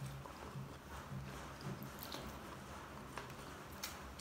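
Close-up chewing of fried shrimp in sauce, in a steady rhythm of about two chews a second, with a few light mouth clicks.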